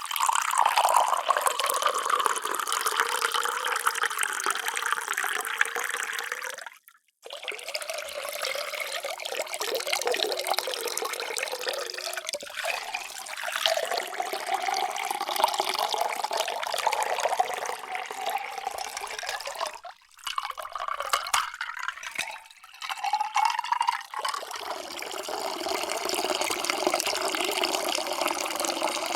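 Water being poured into drinking vessels, several separate pours broken by short pauses. During some pours the tone rises as the vessel fills.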